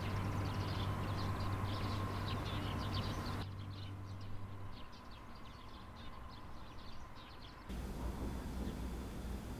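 Small birds chirping in quick, busy calls over a low steady background hum; the background shifts abruptly twice, about three and a half and just under eight seconds in.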